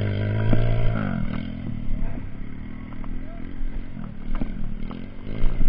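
Trail motorcycle engine revving for about the first second and a half, then running at lower revs.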